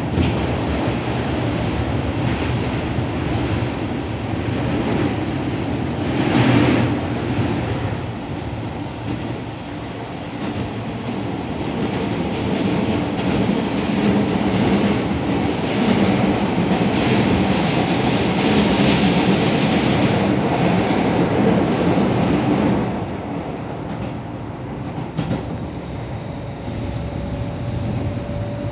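Keio 7000 series commuter train running at speed, heard from inside the car by the doors: a steady rumble of wheels on rail with a brief louder surge about six seconds in. The noise drops back about three-quarters of the way through, and a faint steady tone enters near the end.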